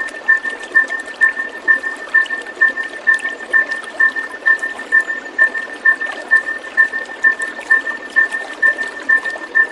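Water trickling and splashing steadily, with a short high pip repeating evenly a little over twice a second above it.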